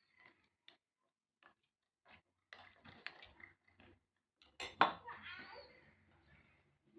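Dishes and utensils clinking and knocking in scattered short taps, with one louder clank about two-thirds of the way in that rings on briefly.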